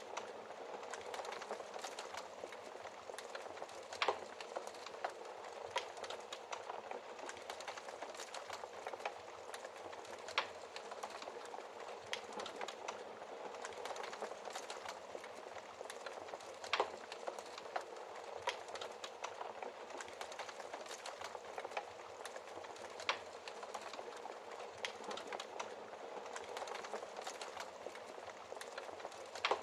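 Fireplace fire crackling steadily, a dense run of small snaps with a louder pop about every six seconds.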